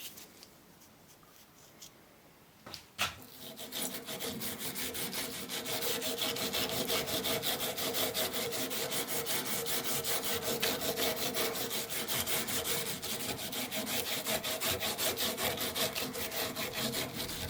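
Handsaw cutting wood in quick back-and-forth strokes, starting a few seconds in after a single click, with a faint ring from the blade.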